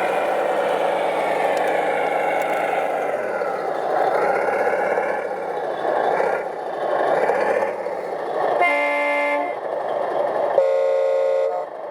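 Radio-controlled truck running, its motor drone rising and falling in pitch, then two separate horn blasts of about a second each near the end, at different pitches.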